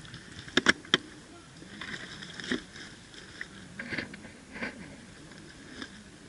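Three sharp airsoft gun shots within about half a second, about a second in, followed by faint distant voices and rustling.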